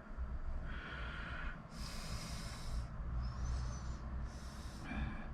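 A person breathing close to the microphone: several breathy exhales or sniffs, each about a second long, over a low steady hum.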